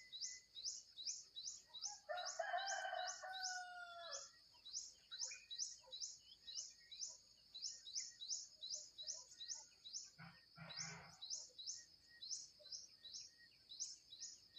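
Birds chirping: a high, thin chirp repeated evenly about twice a second, with a harsher, lower call lasting about two seconds near the start and a short rustling burst about ten seconds in.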